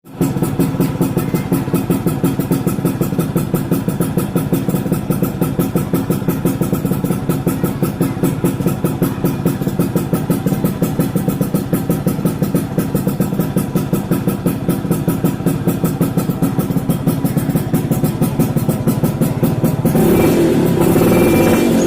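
Yamaha F1ZR's 110 cc single-cylinder two-stroke engine idling through its exhaust with a steady, rapid pulsing putt. Background music comes in near the end.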